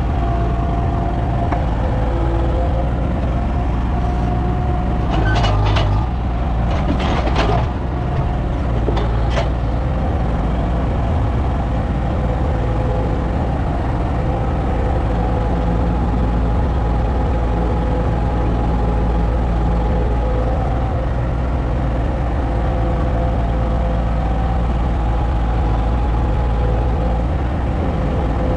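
A motor vehicle's engine running steadily, with a few sharp clicks or knocks about five to nine seconds in.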